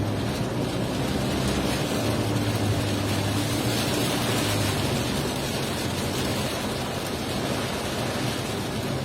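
Car driving in rain: a steady hiss of rain and tyres on a wet road over a low, even engine hum.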